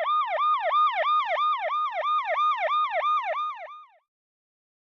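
Ambulance siren in a fast yelp, its pitch sweeping up and down about four times a second, cutting off abruptly about four seconds in.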